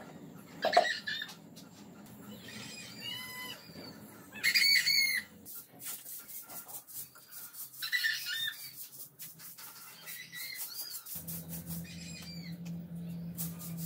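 Small birds chirping in short arched calls, several times over the stretch. A steady low hum comes in about eleven seconds in.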